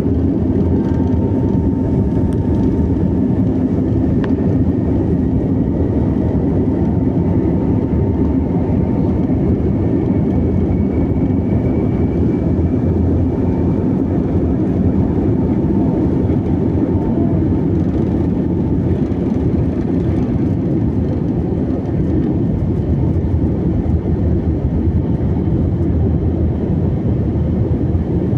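Airplane engines running during takeoff: a steady, loud low rumble with a faint high whine on top.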